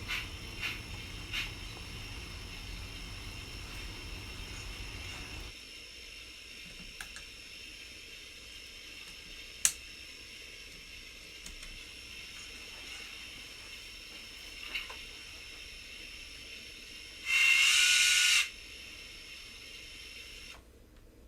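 Steady hiss from a model 2-8-0 steam locomotive's sound, with a low rumble that stops about five seconds in. A sharp click comes about ten seconds in, and a loud pitched blast lasting about a second comes near the end.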